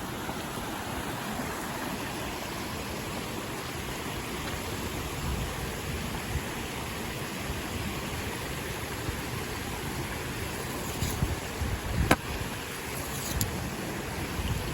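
Steady rushing of a mountain stream, with a single sharp click about twelve seconds in.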